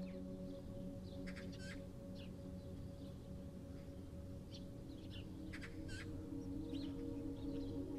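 Birds chirping in short, scattered calls over a steady, sustained ambient music drone of held low tones.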